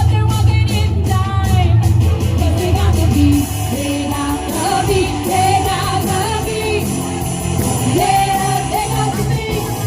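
Live rock cover band playing an 80s pop song through a PA, a woman singing the melody over electric guitar, bass and drums.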